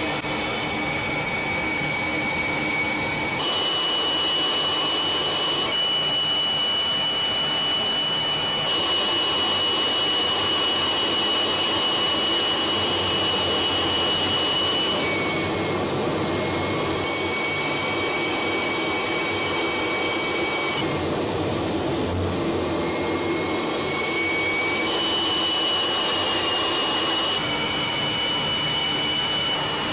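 Su-24 jet engines running with a steady rushing noise and a high whine, the whine jumping abruptly to a new pitch every few seconds.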